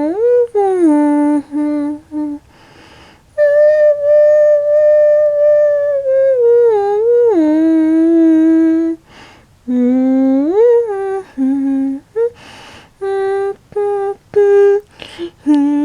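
Someone humming a slow, wandering tune: long held notes joined by swooping rises and falls, broken by short pauses between phrases.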